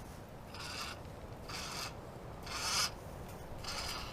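Fishing line being paid out from a small ice-fishing rod reel as the baited rig is lowered to the bottom: a series of short rasping strokes, roughly one every half second to a second.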